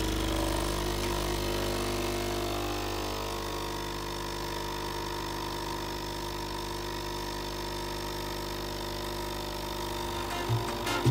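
Capsule espresso machine's pump humming steadily as it brews coffee into a mug.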